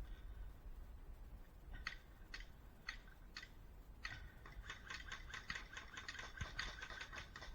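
Airsoft gun fire, faint: a few single shots about half a second apart, then a rapid string of shots at about nine a second from about four seconds in.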